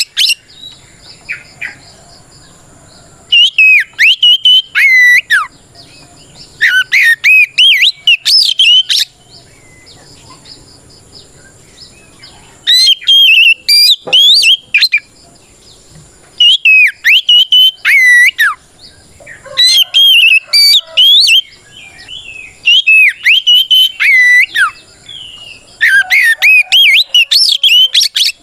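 Oriental magpie-robin (kacer) singing its loud fighting song, bursts of rapid, varied whistled phrases a second or three long separated by short pauses. This is the full, open-voiced 'ngeplong' song a male uses to call out a rival.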